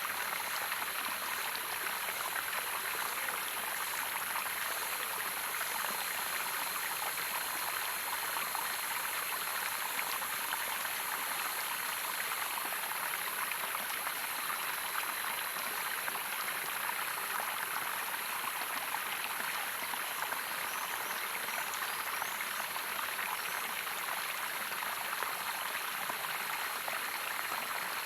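Stream water running steadily, an even continuous rush with no breaks.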